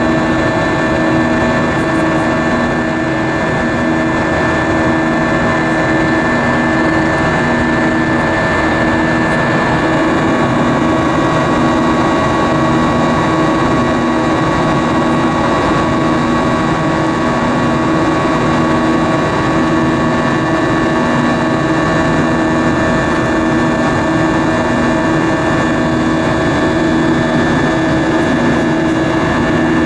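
Steady jet-engine and airflow roar inside the cabin of an Airbus A320-232, whose IAE V2500 engines give a steady hum with a low drone that throbs about once a second.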